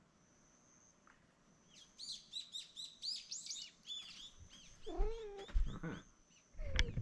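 A bird chirping in quick, high twittering notes, followed a little after five seconds by a short cat meow that rises and falls. Low thumps and rustling come in near the end.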